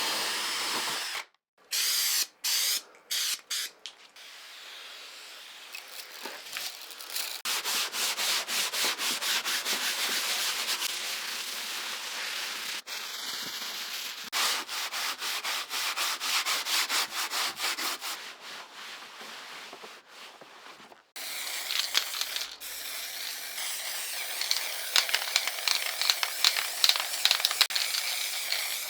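Hand sanding: quick, even back-and-forth strokes of an abrasive rubbing over a surface, several a second. It comes in short runs that start and stop abruptly.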